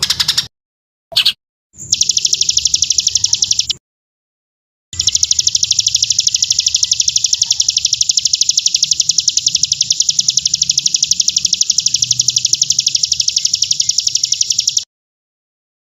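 A recording of a rapid, even, high-pitched chirping trill, the kind of fill-in song played to train white-rumped shamas (murai batu). It breaks off into dead silence about four seconds in, resumes a second later, and stops again near the end.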